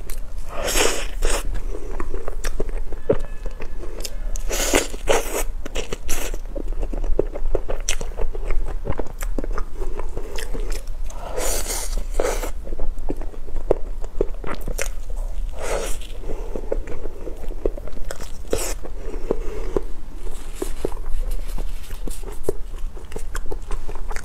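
Close-miked eating sounds: wet chewing and mouth smacks while biting into a soft sponge pastry filled with whipped cream and mango, with louder bursts every few seconds.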